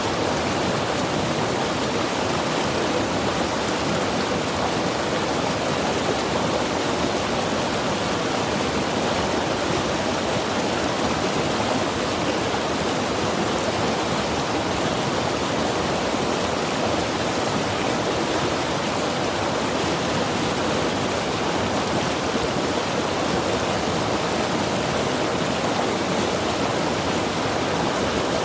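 Mountain river rushing steadily, a constant even wash of flowing water.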